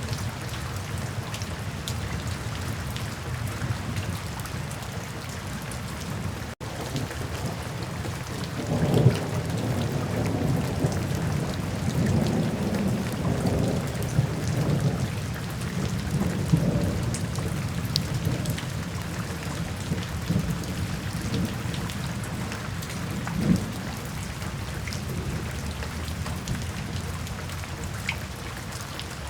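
Steady rain falling, with thunder rolling in low about a third of the way through and rumbling on for several seconds, then a shorter rumble about two-thirds in.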